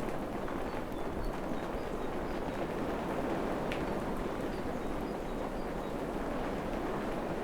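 Steady rain falling in a tropical forest, an even hiss without a break, with a few faint short high chirps scattered over it.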